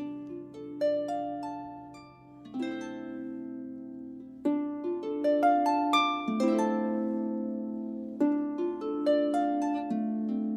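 Solo harp playing a slow, gentle passage of plucked notes and chords that ring on and overlap as they fade.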